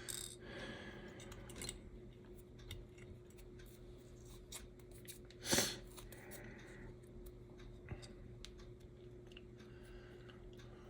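Light clicks and taps of tiny HO scale slot car chassis parts and small tools being handled on a workbench, with one louder scrape about five and a half seconds in, over a faint steady hum.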